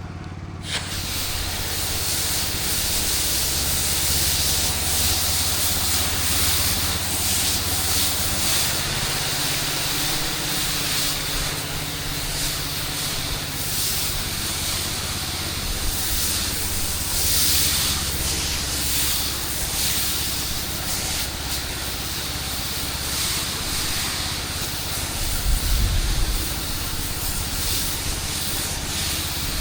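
Pressure-washing rig running: a steady engine hum under the loud, continuous hiss of high-pressure water spray. The sound starts about a second in.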